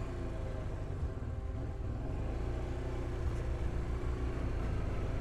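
Motorcycle engine running under load while climbing a steep track, its pitch rising and falling slightly with the throttle over a steady low rumble.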